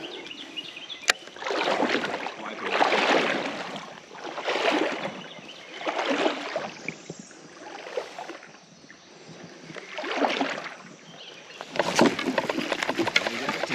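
Legs wading through creek water, a swishing slosh with each stride, repeating about every one and a half to two seconds. A single sharp click about a second in.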